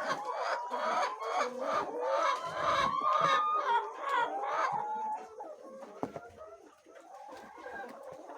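A flock of laying hens clucking and calling over one another, busy for about the first five seconds and then quieter.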